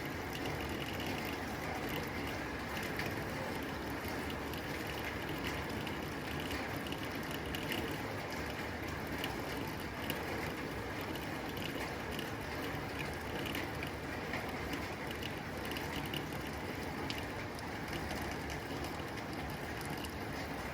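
Rain falling steadily on a tin roof: a dense, even patter of drops ticking on the metal.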